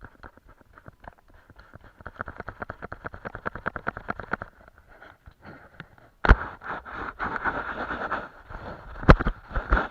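Paintbrush scrubbing paint onto a painting surface in quick back-and-forth strokes, several a second. About six seconds in there is a sharp knock, then denser scraping with a few more knocks.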